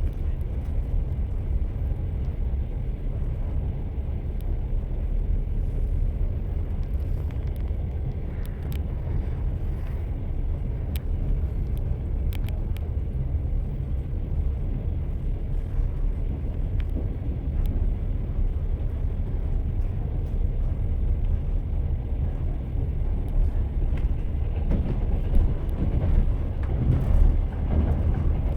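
Train wheels running on the rails: a steady low rumble with some faint clicks, and a few louder knocks near the end.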